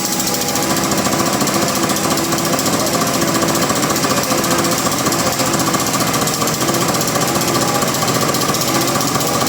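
Sawmill machinery running with a loud, fast, steady rattle.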